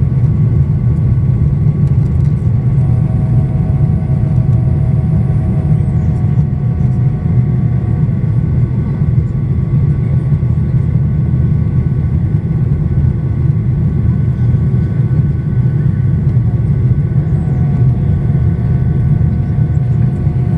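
Boeing 737-800 cabin noise in flight: the steady low rumble of airflow and CFM56 turbofan engines heard from inside the cabin, with faint steady whines over it.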